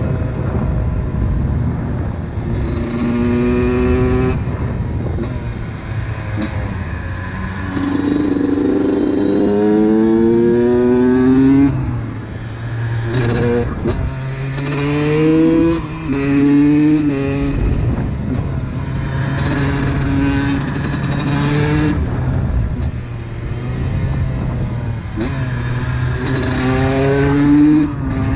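Honda CR125's single-cylinder two-stroke engine revving hard as the bike accelerates through the gears. The pitch climbs again and again, each rise cut off by a shift, with the longest pull about eight seconds in.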